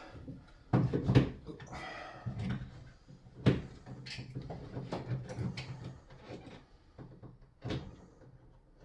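Scattered knocks, clicks and clatter of hands and tools working on a shower fitting while trying to get a screw in. The loudest knocks come about a second in and again at about three and a half and seven and a half seconds.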